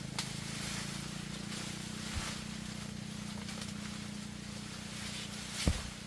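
A small engine running steadily with a low hum, with a few short knocks over it; the loudest is a thump near the end.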